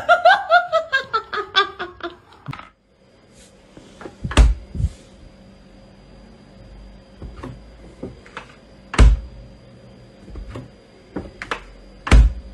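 A person laughing in a quick run of ha-ha bursts that fall in pitch, for about two seconds. Then comes a quiet room with a faint steady electrical whine and scattered dull thunks, three of them loud and spread a few seconds apart.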